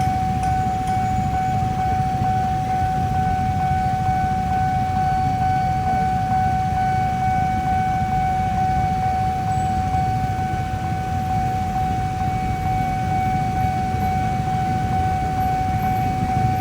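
Railway level-crossing warning alarm sounding as one steady, unbroken tone, over a low rumble of traffic.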